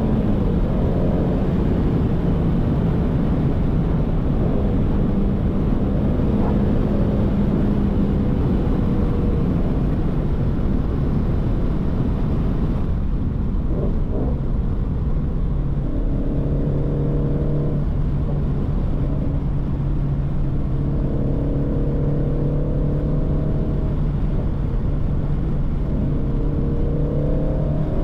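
2019 Shelby GT350's 5.2-litre flat-plane-crank V8 and exhaust running while cruising, its pitch rising and falling with the throttle. About halfway through the hiss thins out and a steadier low drone settles in.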